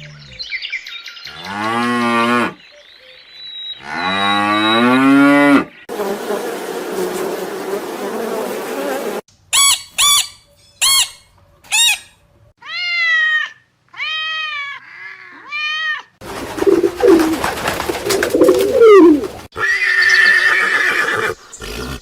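Cattle mooing: two long calls in the first six seconds. These are followed by a string of shorter, higher-pitched animal calls and stretches of rough noise.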